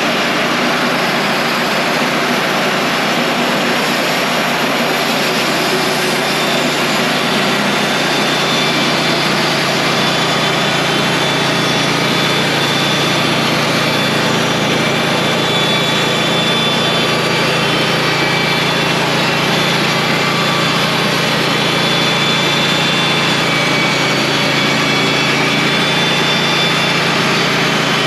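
Wood-Mizer portable band sawmill running steadily under its gasoline engine, an even engine hum with a dense hiss over it, unchanging throughout.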